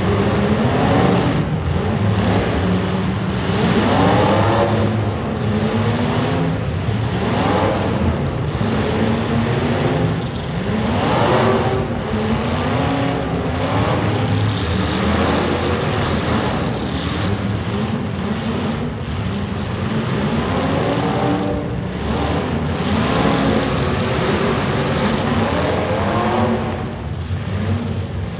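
Several demolition derby cars' engines running hard at once, their pitch repeatedly rising and falling as drivers rev and let off, over a steady low rumble, with a few sharp knocks of cars hitting each other.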